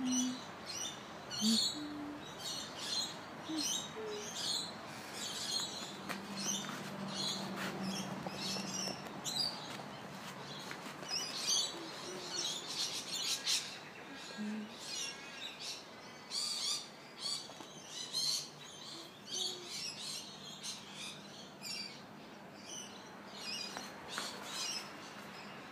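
Songbirds chirping and singing, with many short high calls a second and a few brief low notes.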